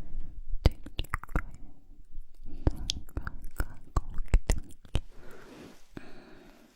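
Close-miked ASMR mouth sounds: a quick, irregular run of wet clicks and smacks from lips and tongue, giving way near the end to a softer airy hiss.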